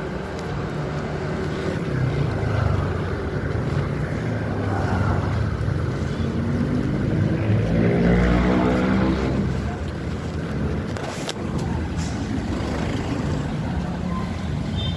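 Motorcycle engine running on the road; about six seconds in its pitch climbs steadily as it accelerates, then settles again.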